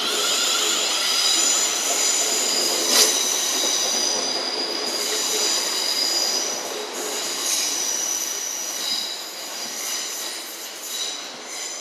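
Train wheels squealing on the rails as a train passes, several high steady tones that come and go, with a sharp click about three seconds in. The sound fades toward the end.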